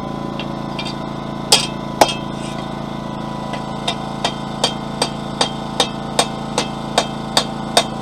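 Hand hammer striking a hot steel bar during forging: two heavier blows about a second and a half in, then from about four seconds in a steady run of lighter taps, about two or three a second. A generator drones steadily underneath.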